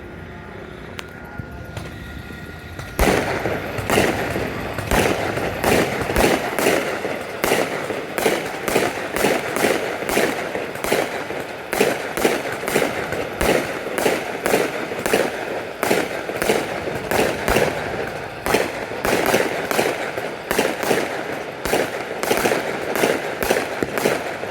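Fireworks shells bursting in a rapid barrage, about two to three bangs a second, starting about three seconds in and stopping abruptly at the end.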